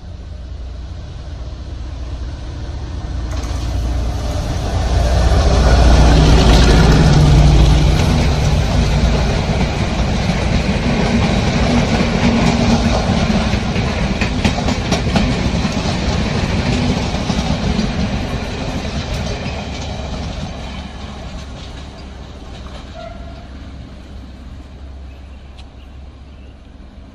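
Class M9 diesel locomotive hauling an express passenger train past: the engine grows louder as it approaches and passes about six seconds in. The carriages then rattle by with wheels clicking over the rail joints, and the sound fades as the train moves away.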